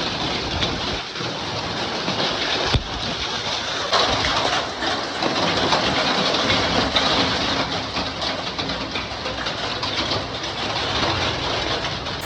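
Hail mixed with heavy rain pelting down, a dense steady patter of many small hits, with one sharper knock about three seconds in.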